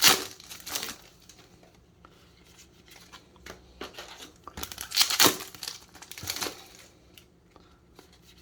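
Yu-Gi-Oh booster pack foil wrappers crinkling and tearing as packs are opened and cards handled, in short sharp bursts; the loudest comes about five seconds in.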